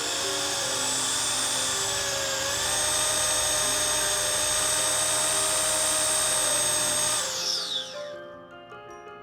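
A small high-speed power tool runs with a steady high whine, dipping slightly in pitch about two seconds in as it takes load. About seven seconds in it is switched off and winds down with a falling whine. Background music plays throughout and is heard alone at the end.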